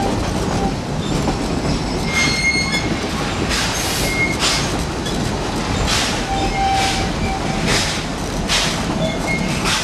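3 ft narrow-gauge train heard from aboard while moving: a steady rumble of the cars, with short high-pitched wheel squeals and a string of brief hissing bursts about once a second.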